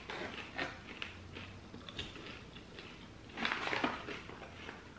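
Quiet crunching of caramel-coated peanut butter popcorn being chewed, with a louder crinkling of the plastic snack pouch as it is picked up and opened, about three and a half seconds in.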